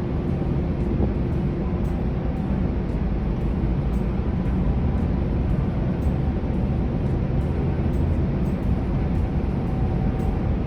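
Steady low rumble of a car ferry under way: engine drone and rushing air, with a few faint steady hums in it.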